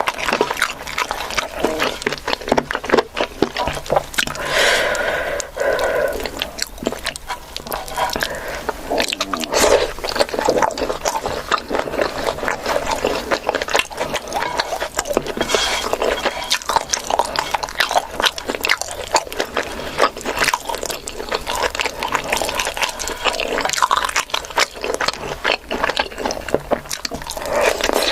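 Close-miked eating: a person chewing and biting food, with a dense run of short clicks and smacks throughout.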